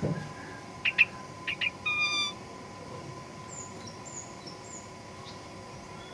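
Sooty-headed bulbul calling: a few sharp chirps in the first two seconds, a short buzzy note at about two seconds, then three faint high whistled notes. A faint steady hum runs underneath.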